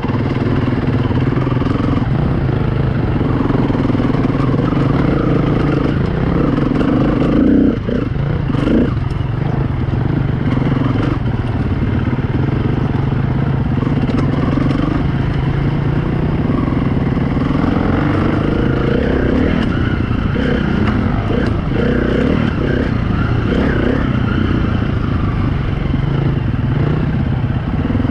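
Four-stroke single-cylinder engine of a 2016 KTM 350 EXC-F enduro bike running on a trail ride, its revs rising and falling with the throttle.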